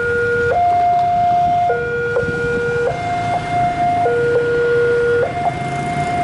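Railway level-crossing warning alarm sounding its two-tone signal, switching between a higher and a lower note about every 1.2 seconds, with a low rumble underneath.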